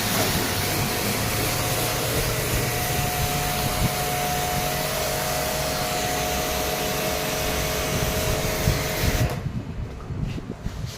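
A motor-driven machine running steadily, a whine over a rushing hiss, that stops about nine seconds in and leaves a quieter hiss with a few clicks.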